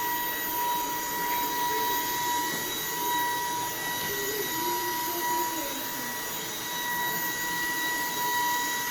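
Upright vacuum cleaner running, its motor giving a constant high whine over a steady rush of air.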